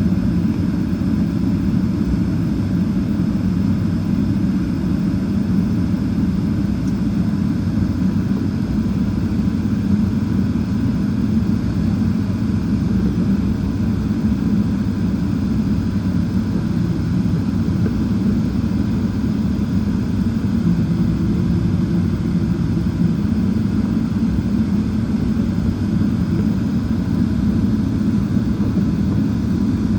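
Boeing 777-300ER with its GE90-115B turbofans running, a steady low rumble that holds an even level throughout, as during taxi rather than a takeoff run.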